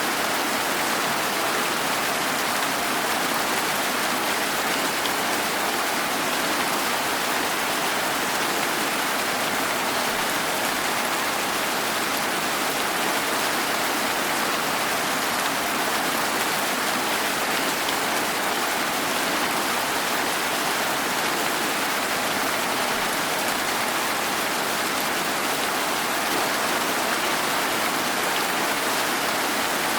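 Steady rain falling, an even hiss that holds at the same level throughout with no thunder or separate drips standing out.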